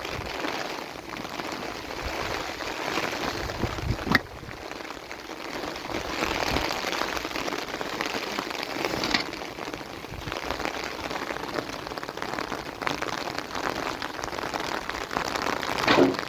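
Steady rain falling, with a sharp knock about four seconds in and a few fainter ones later.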